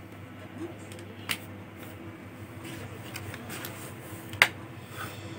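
Sharp plastic clicks from hands working on a laptop's case, a few of them, the loudest about four and a half seconds in, over a low steady background hum.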